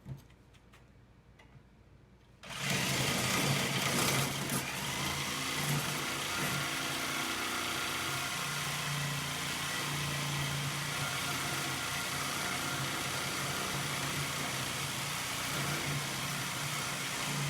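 Jigsaw with a metal-cutting blade sawing through thick steel plate, starting about two and a half seconds in and running steadily with a buzzing hum that wavers slightly.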